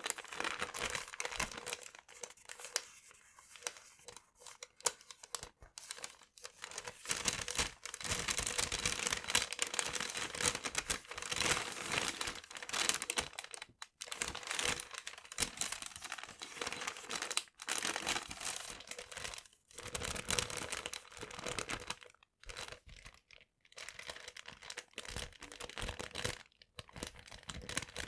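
Paper being crumpled and crinkled close to the microphone, in stretches of crackling broken by short pauses.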